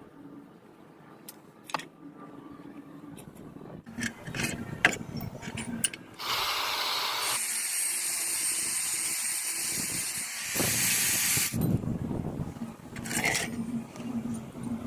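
A few light clicks and knocks, then a steady hiss about six seconds in that lasts roughly five seconds and gets louder just before it stops.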